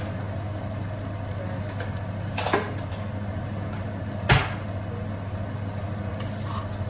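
Steady low hum with two sharp knocks, about two seconds apart, the second louder.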